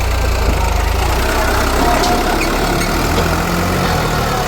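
Heavy diesel engine running steadily, with a faint high whine over it.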